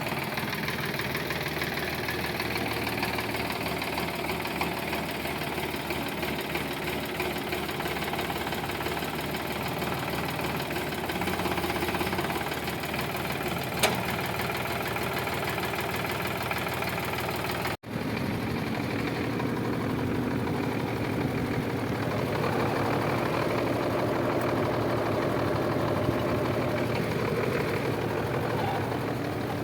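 Tractor diesel engine running steadily, with one sharp click about two-thirds of the way in. The sound cuts out for an instant later on, then the engine carries on.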